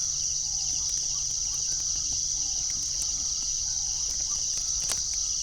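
Steady, high-pitched chorus of crickets or other night insects, unbroken throughout.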